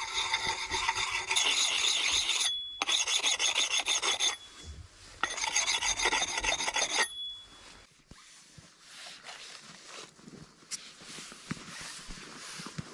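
Harsh rasping, scraping strokes in three long passes, then quieter light clicks and handling for the rest.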